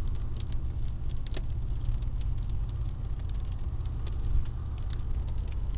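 A car driving, heard from inside the cabin: a steady low road rumble with many irregular sharp ticks of pea-sized hail striking the car's body and windows.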